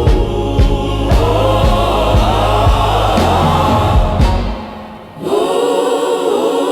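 Gospel choir singing over a bass and drum beat. About four seconds in the music fades and briefly drops out, then the voices come back without the bass and drums.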